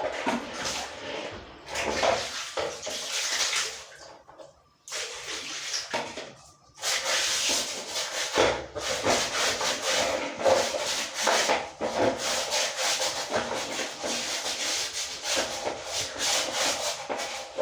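Scrubbing a dirty washing machine clean: quick, repeated rubbing strokes, with short pauses about four and six seconds in.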